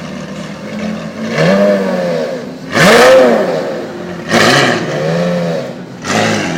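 Car engine idling and blipped four times, each rev rising and falling in pitch, the second rev the loudest.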